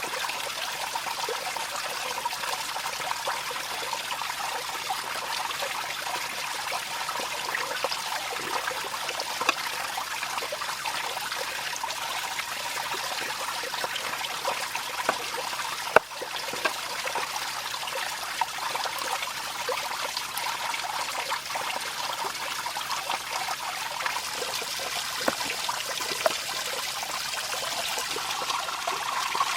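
Water trickling and running steadily, like a small stream, with scattered small clicks and one sharper click about halfway through.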